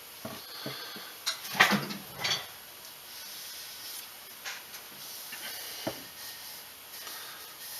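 Knocks and clatter of objects being handled and set down on a wooden workbench: a few light taps, a louder burst of clattering about a second and a half in, and a single knock near the end.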